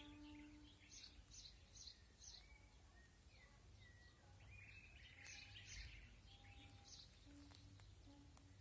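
Faint chirping of small birds: short high chirps repeated at irregular intervals, with a few brief whistled notes.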